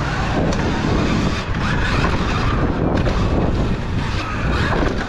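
On-bike sound of a dirt-track pit bike race: steady rush of wind and tyre noise, with pit bike engines revving up and down.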